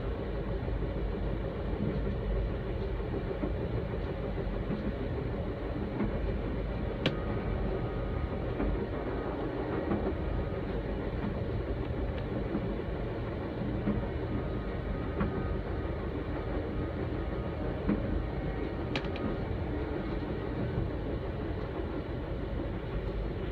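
Steady rumble and rail noise of a VIA Rail passenger train (The Canadian) in motion, heard from inside the car, with two faint clicks along the way.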